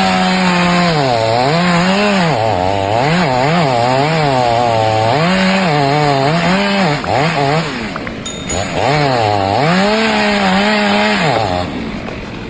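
A small engine revving up and down over and over, its pitch swinging between a high steady run and lower dips, then cutting off near the end.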